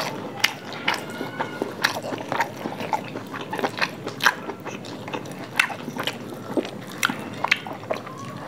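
Close-up eating sounds: chewing and lip-smacking on handfuls of fried rice and chilli chicken, with many short, sharp wet smacks at irregular intervals.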